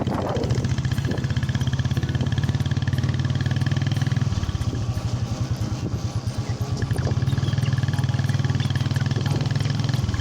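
Royal Enfield motorcycle's single-cylinder engine running steadily while riding, with an even pulsing beat. The engine note shifts slightly about four seconds in.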